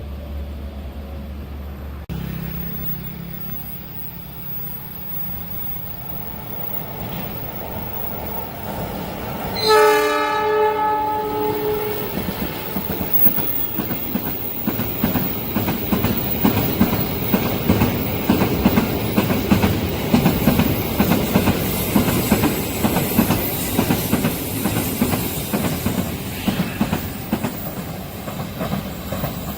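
A train approaching and passing: a rumble builds, the locomotive horn sounds one blast of about two seconds about ten seconds in, then the train rolls past with rapid, steady wheel clatter on the rails.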